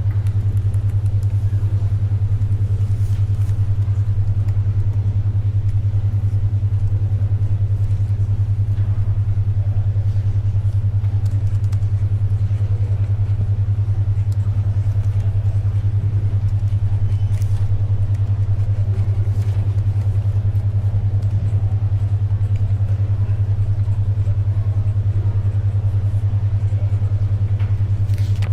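A steady low hum pulsing rapidly, a 10.2 Hz alpha brainwave beat tone, over faint library background noise with a few soft paper and pencil sounds.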